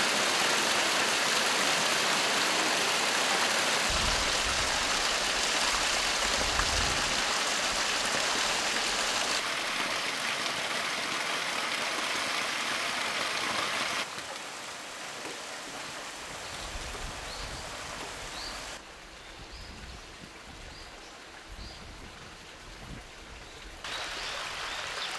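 Mountain stream water rushing and splashing steadily, its loudness stepping down abruptly a few times as the shots change. A few faint short chirps in the quieter second half.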